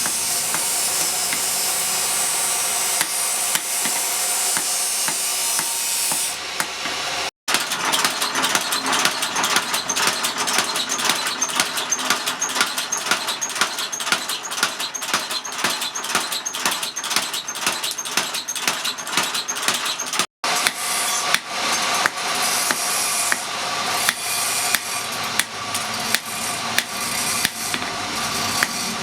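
Hand tools working a steel blade cut from a truck leaf spring, in three short clips. First comes a steady scraping hiss, then even strokes about two or three a second, then sharper, less even strikes near the end.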